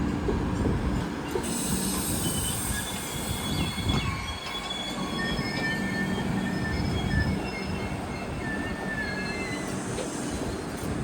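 A train rolling past on the rails with a steady low hum and rumble. About a second and a half in, several high-pitched metal wheel squeals start up, overlapping and shifting; they die away near the end.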